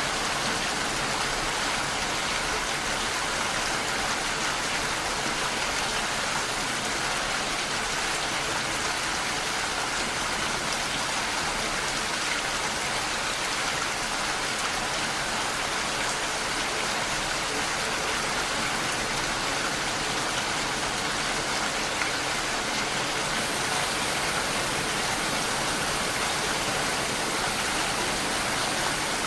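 Steady rain falling, an even hiss with no breaks. A little past two-thirds of the way through, the highest part of the hiss turns slightly brighter.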